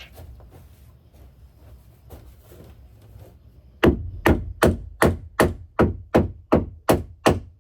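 Hammer driving a nail into a wooden roost perch: a steady run of about eleven sharp blows, nearly three a second, starting about four seconds in, after a few faint taps and handling sounds.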